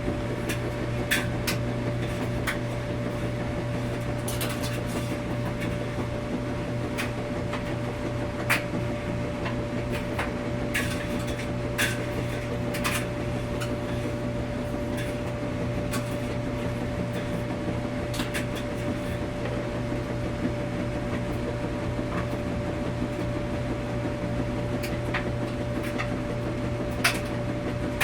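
Washing machine running with a steady hum, with irregular small clicks and knocks scattered throughout.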